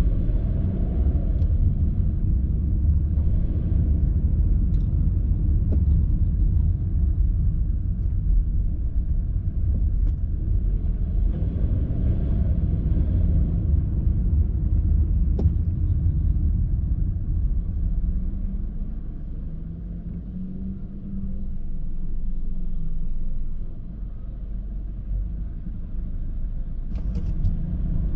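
Steady low rumble of road vehicle noise, swelling around the middle and easing off somewhat in the last few seconds.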